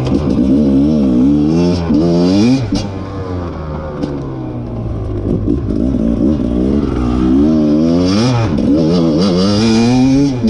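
Rieju MR 300 single-cylinder two-stroke enduro engine being ridden hard, its pitch rising and falling repeatedly as the throttle is opened and closed through the gears.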